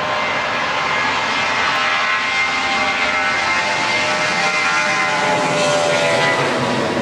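Boeing 737 jet engines at takeoff thrust: a loud, steady rush of jet noise with high whining tones that drift slowly in pitch, growing slightly louder.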